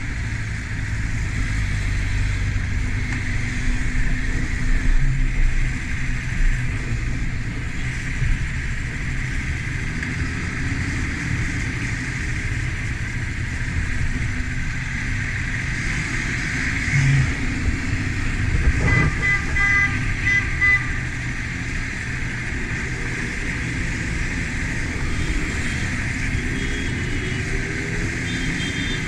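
Motorcycle riding in traffic, its engine running steadily under constant wind rush over the action-camera microphone. A horn beeps briefly about two-thirds of the way through.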